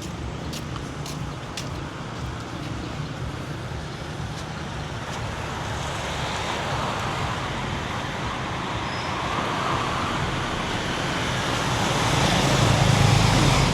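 Road traffic noise: a steady wash of passing vehicles, growing louder near the end as a vehicle with a low engine hum passes close.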